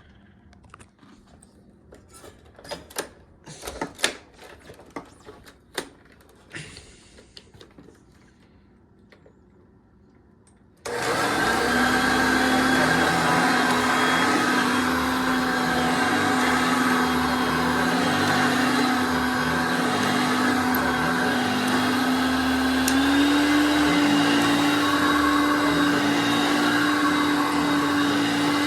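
A few scattered clicks and knocks, then a Hoover Concept One vacuum cleaner switches on abruptly about eleven seconds in and runs steadily with a motor hum. Its pitch steps up slightly later on.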